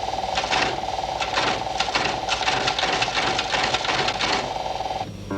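A small machine running with a steady whine and a rhythmic clatter, about two to three strokes a second, which stops near the end.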